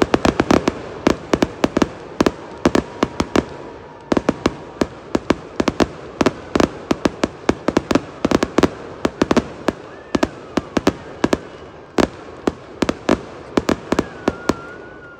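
Aerial fireworks bursting in a rapid barrage, several sharp bangs a second, the bangs thinning out near the end.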